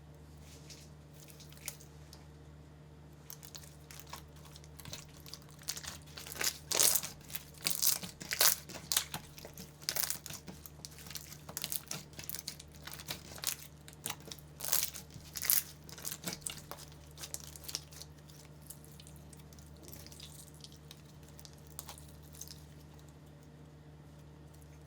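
Slime being squeezed and pressed, crackling and popping in quick runs of small clicks, busiest through the middle and thinning out toward the end.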